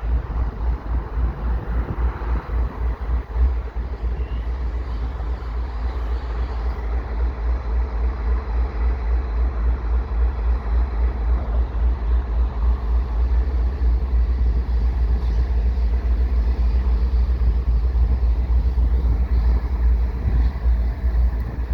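Canadian Pacific double-stack freight train rolling slowly past, a steady rumble with faint steady tones. Wind buffets the microphone in a continuous low pulsing.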